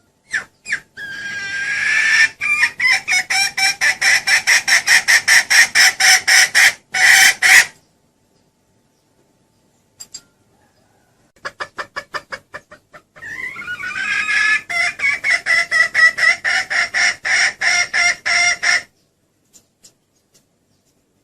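Junglefowl hen cackling: two long runs of rapid, loud clucks, about four to five a second, each run opening with a few short notes and then building, with a pause of a few seconds between them.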